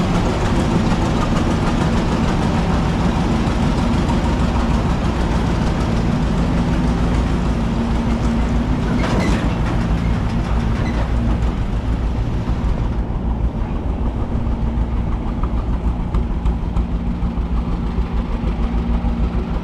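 Tractor engine running steadily with a low, throbbing beat. A brief sharp knock comes about nine seconds in, and a few seconds later the engine sound turns duller and more uneven.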